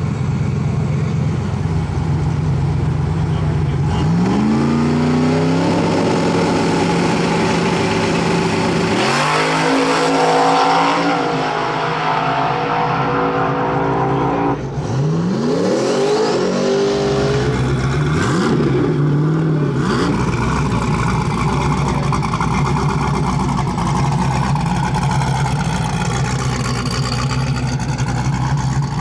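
Drag race car engine at the strip: running steadily, then revving up, holding a high note that cuts off sharply about halfway through, followed by several quick rising sweeps in pitch as it accelerates through the gears, with loud engine noise continuing to the end.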